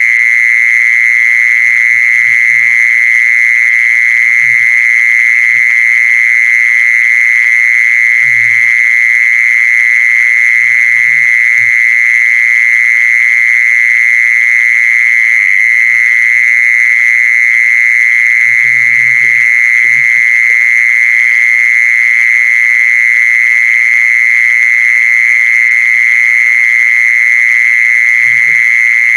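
Animal lure call recording for the female kmol: a loud, unbroken high-pitched drone with short, low croaking calls every few seconds, with a long gap in the middle.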